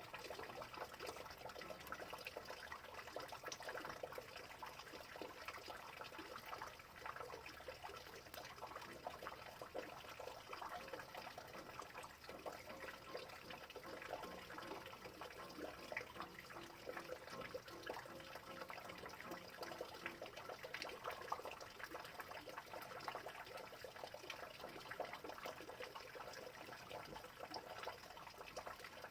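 Rain falling steadily, a dense, unbroken patter of many small drops.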